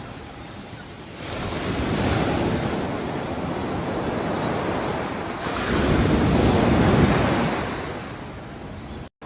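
Ocean waves breaking on a shore: one wave surges in about a second in, and a bigger one builds through the middle, breaks and washes back. The sound cuts out for an instant near the end.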